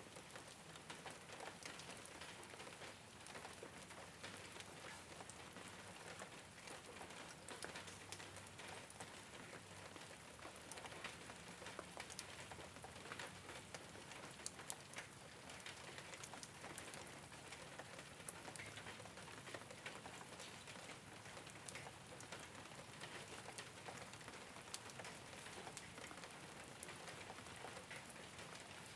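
Soft, steady rain falling on a rooftop, with scattered individual drops ticking throughout.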